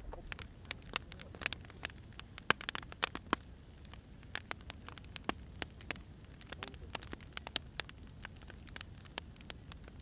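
Firewood burning, crackling with irregular sharp pops over a low steady hiss.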